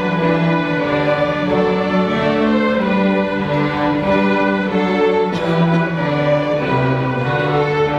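Bowed string ensemble (violins and cellos) playing a slow melody in held notes, with a brief break about five seconds in before the next phrase.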